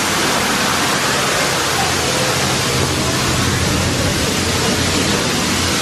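Steady rushing noise at an even level, with faint voices underneath.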